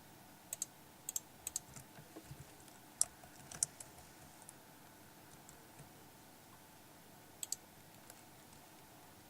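Scattered sharp clicks and taps, several of them in quick pairs, over a faint steady hiss.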